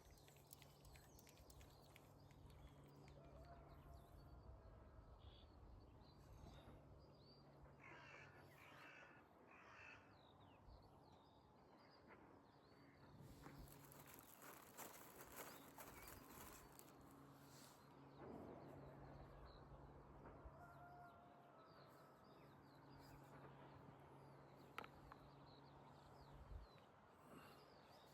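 Faint rural outdoor ambience: small birds chirping and a cockerel crowing in the distance a couple of times, over a steady low hum.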